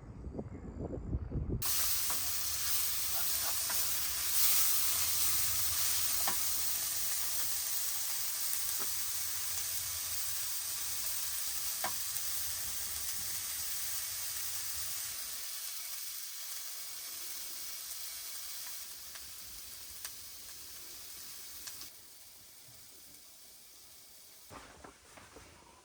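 A sizzling hiss with scattered small pops, starting suddenly about two seconds in and slowly dying away over some twenty seconds.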